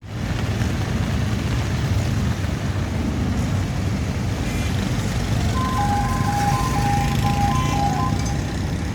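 Road traffic running steadily with engine noise. About five and a half seconds in, a vehicle's two-note electronic horn or jingle gives several short beeps over about three seconds.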